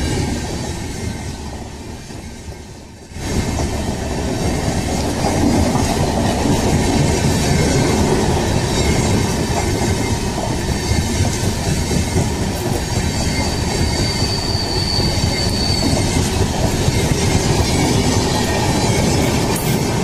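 Passing LHB passenger coaches of an express train: the wheels roll over the track in a steady rumble and clatter. The sound fades and then comes back abruptly about three seconds in. A high wheel squeal is heard for a few seconds about two-thirds of the way through.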